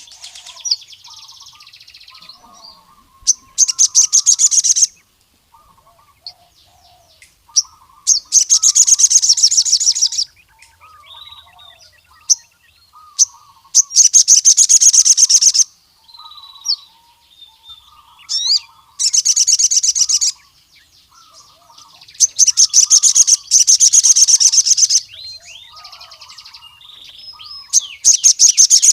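Male sogon sunbird singing: about six loud bursts of fast, high, rattling trills, each a second or two long, with short pauses between them. A fainter, lower-pitched bird phrase repeats throughout.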